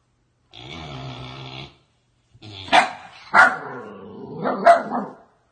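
A dog growling, then barking three times over continued growling.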